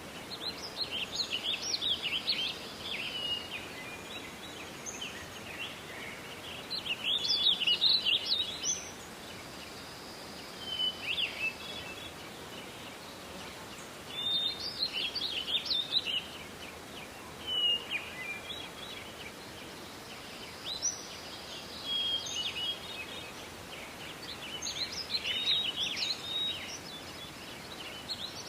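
Songbirds singing in a forest: short, high chirping phrases of a second or two, repeated every few seconds over a steady background hiss.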